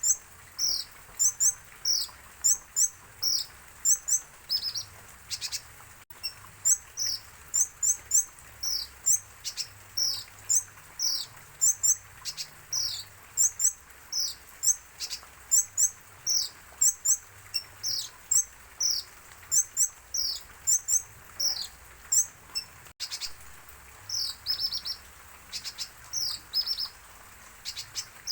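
A sunbird (the 'konin', kolibri ninja) singing a fast, continuous run of high, thin chirps, many of them short downward sweeps in quick pairs and triplets, several notes a second.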